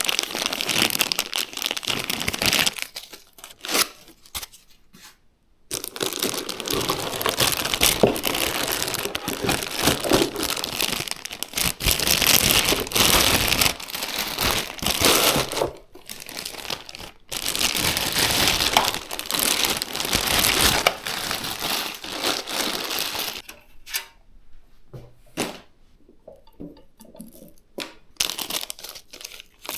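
Packaging being handled and crinkled: long stretches of crumpling, crinkling and tearing, then quieter scattered handling clicks for the last several seconds.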